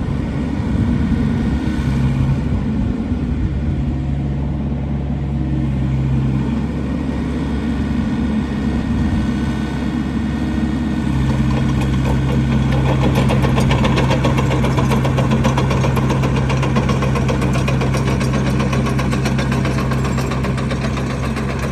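Diesel engine of a 2021 XCMG XE60DA midi excavator running steadily. Its pitch wavers during the first several seconds, then holds steady from about halfway through.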